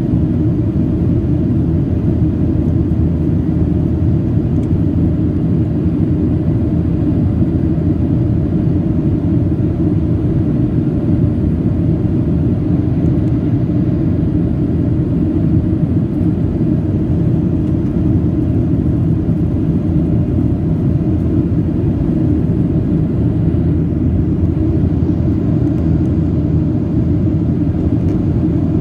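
Steady low rumble of an airliner's engines and rushing air heard from inside the passenger cabin, unchanging throughout.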